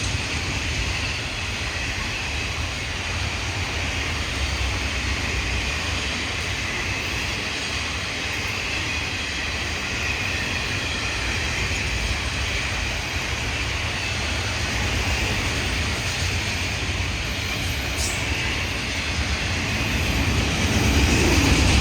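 Florida East Coast Railway freight train rolling past, a steady rumble of wheels on rails that grows louder near the end.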